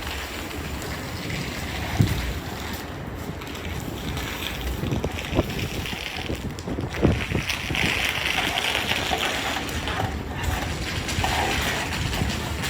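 Wind buffeting the microphone in a snowstorm, a steady rushing noise with a few scattered thuds.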